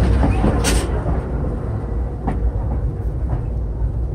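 Steady low rumble of a moving passenger train heard inside the coach car. A louder rushing noise cuts off under a second in, and a couple of light knocks sound later.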